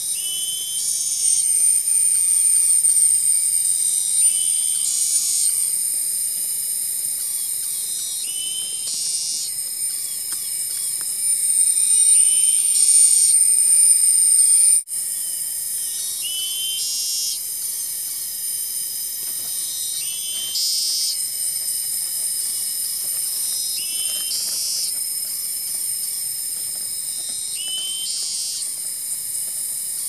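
A bird call repeated about every four seconds, a short rising whistled note followed by a higher buzzy trill, over a steady high-pitched shrill drone.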